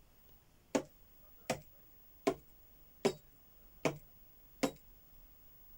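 Six evenly spaced knocks on a table, a little under a second apart.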